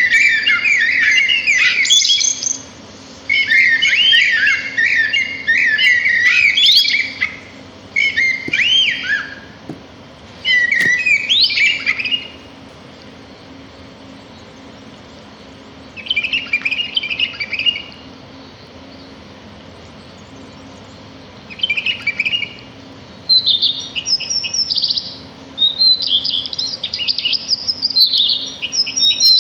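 Small songbirds singing in quick, warbling phrases of one to four seconds, broken by pauses, with a long unbroken stretch of song over the last few seconds.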